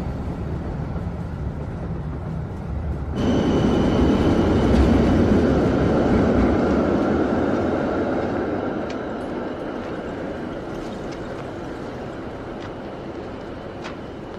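Train running with a steady rumble; about three seconds in a louder rush of train noise with a high squeal cuts in, then slowly dies away.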